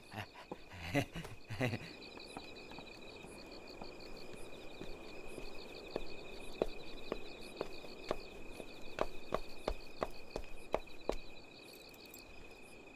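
Crickets chirping steadily in a night-time background. From about six to eleven seconds in, a run of soft taps comes about twice a second, like footsteps.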